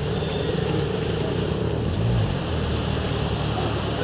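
Road traffic: vehicle engines and tyre noise running steadily, with a low engine swelling briefly about halfway through.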